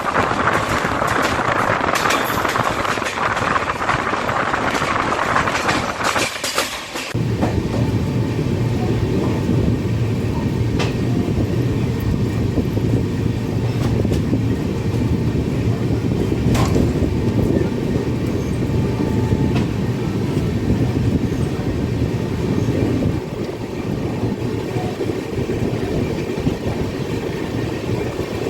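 Express passenger train running at speed, wheels clattering on the rails. For the first seven seconds or so it is a hissing rush, then it changes abruptly to a deeper, steady rumble.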